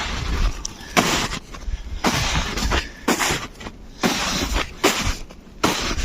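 Footsteps crunching through snow, one crisp crunch about every second.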